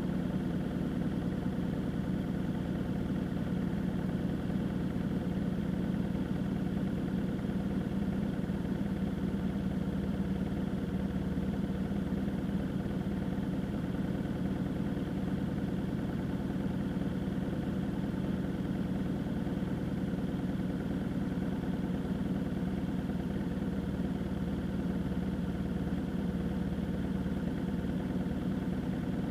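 A vehicle engine running steadily, a constant low drone that neither rises nor falls.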